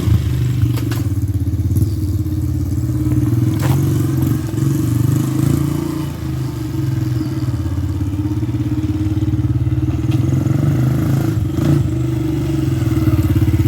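Honda XR70R pit bike's small four-stroke single-cylinder engine running steadily, with a few light knocks and clatters over it.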